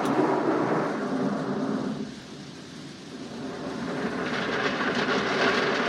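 Automated car wash equipment running around the car, heard from inside the cabin as a loud rumbling rush. It fades for about a second, two seconds in, then builds back up.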